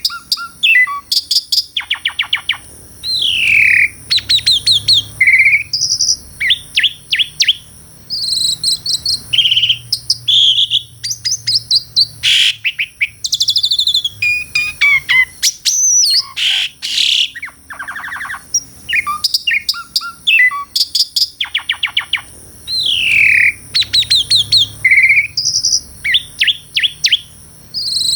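Asian pied starling (jalak suren) singing an energetic, varied song: fast runs of clicking notes, short whistles and sliding calls in quick succession, with only brief pauses between phrases.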